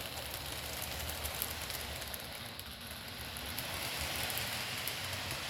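Model train running on the layout track: a steady hiss and crackle of wheels over rail with a faint low motor hum.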